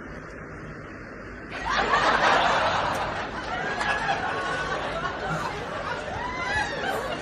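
Someone laughing, coming in suddenly about a second and a half in over faint background noise.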